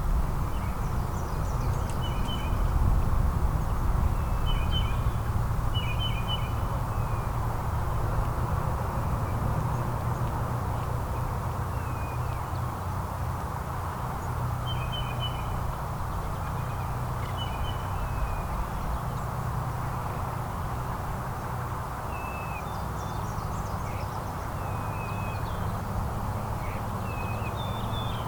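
Small songbirds chirping in short, scattered calls every second or two, over a steady low background rumble.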